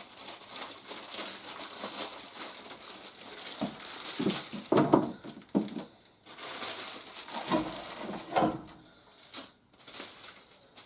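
Plastic toy packaging being handled and unwrapped: irregular crinkling and rustling, louder in a few bursts midway and near the end.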